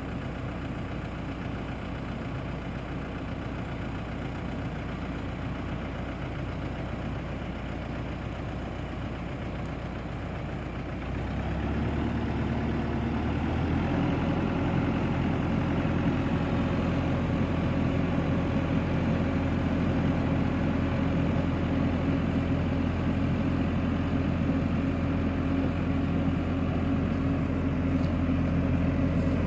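BCS Volcan K105 compact tractor's engine running steadily at low revs; about eleven seconds in it speeds up and gets louder, then holds steady at the higher speed.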